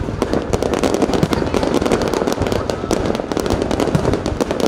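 Fireworks display going off in a dense, continuous barrage of sharp bangs and crackles with no pause.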